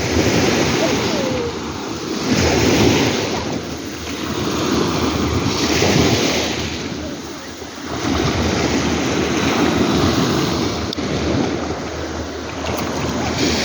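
Sea waves breaking on the shore, the surf swelling and easing in surges every three to four seconds.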